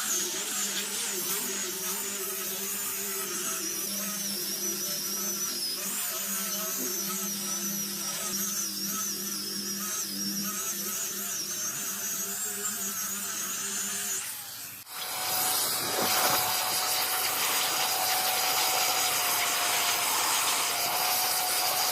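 Electric power tool running steadily, as in woodworking. About 15 seconds in it drops out briefly, and a louder, noisier tool sound with a steady tone takes over.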